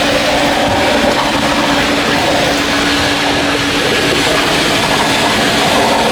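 Steady running noise of a self-serve car wash bay's foam brush cycle, a constant hiss with a hum held at one pitch.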